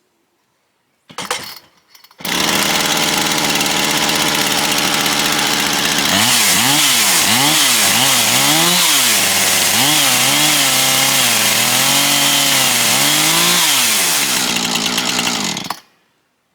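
Chainsaw fitted with a ripping chain for milling, started about two seconds in and run briefly to check the chain adjustment. It runs steadily at first, then is revved up and down repeatedly from about six seconds in, and shuts off near the end.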